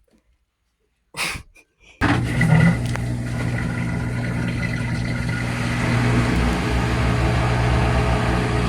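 Near silence with a brief noise just after one second in, then the GE Spacemaker GUD24ESSM1WW washer comes in abruptly at about two seconds: a steady hum of the drain pump emptying the tub.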